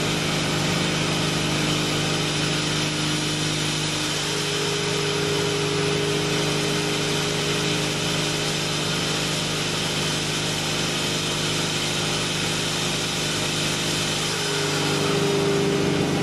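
Newly built, turbocharged Toyota 2JZ-GTE straight-six in a BMW E36 M3 running under load on a chassis dyno during a mild run-in tune. It is a steady, loud drone with a constant hum and no rise or fall in pitch, shifting slightly near the end.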